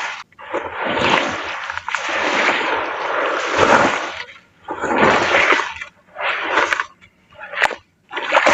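Grainy crumbly pieces being crushed and crumbled into water, with wet splashing and sloshing: one long stretch for the first four seconds or so, then several short separate bursts.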